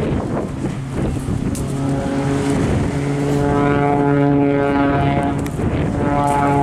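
Extra 300 aerobatic aircraft's piston engine and propeller droning at a fairly steady pitch, growing stronger about two seconds in.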